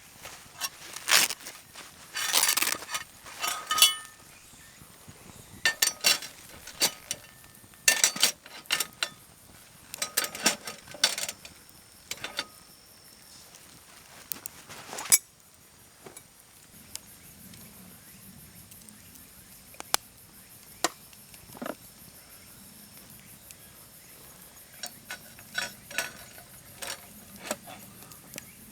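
Camp cookware and utensils being handled: a run of clinks and knocks, some ringing briefly like metal, busiest in the first half and sparser after.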